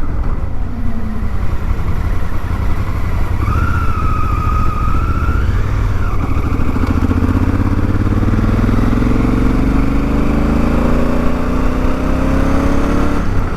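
Honda Africa Twin's parallel-twin engine running at highway speed under a steady low rumble of wind. From about six seconds in, the engine note rises slowly as the bike accelerates. A brief steady whistle sounds for a couple of seconds around four seconds in.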